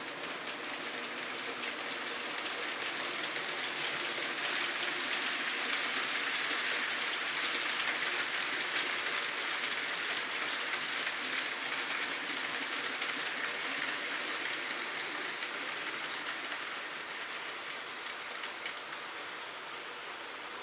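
H0-scale model train running along the track: a steady rolling rattle of small metal wheels on rails that swells as it passes close and fades toward the end, with a sharp click about six seconds in and faint high ticks.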